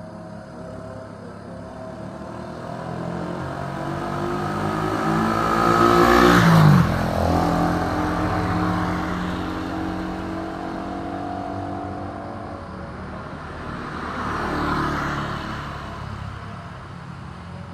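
A motor vehicle's engine passing by: it grows louder, peaks about six and a half seconds in, and its pitch drops sharply as it goes past. A second, fainter vehicle passes near the end.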